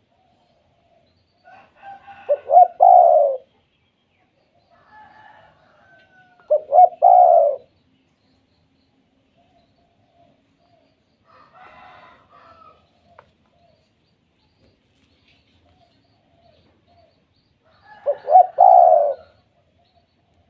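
Spotted dove cooing: three loud phrases, each a few quick short notes running into a longer falling coo, spaced several seconds apart. Fainter, higher bird calls come between them.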